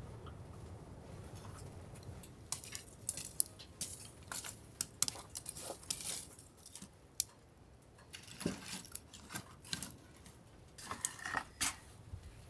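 Cookware and utensils being handled: a run of sharp, irregular clinks and clicks of metal and dishes, after a low rumble at first.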